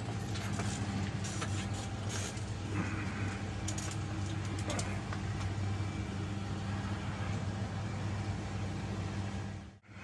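Steady low motor hum with a few faint clicks, dropping out briefly near the end.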